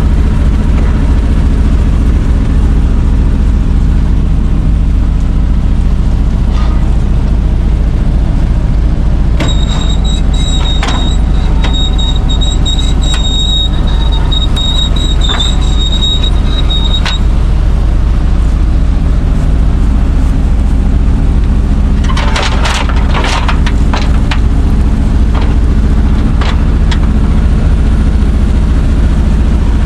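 Old Chevrolet C60 wrecker's engine running steadily. A high, steady squeal sounds for about seven seconds near the middle, and a few sharp metal clanks come about two-thirds of the way in.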